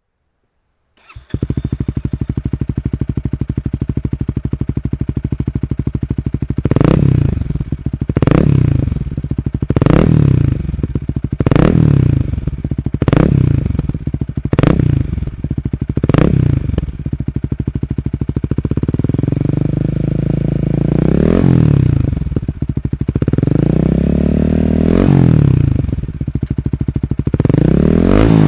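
2020 Honda Rebel 250's single-cylinder engine through an OVER Racing slip-on muffler, heard close at the exhaust outlet. It idles steadily from about a second in, is blipped sharply seven times in quick succession, then revved three times more slowly, each rev rising and falling over a couple of seconds.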